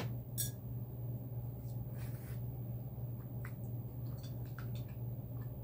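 Soft chewing and wet mouth sounds of someone eating a mouthful of thin spaghetti alfredo, with a few small clicks, over a steady low hum.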